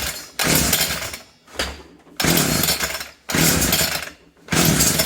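Homelite i625cd string trimmer's two-stroke engine being cranked by its recoil pull-starter, yanked about five times in quick succession, each pull lasting about a second, with the choke closed for a cold start.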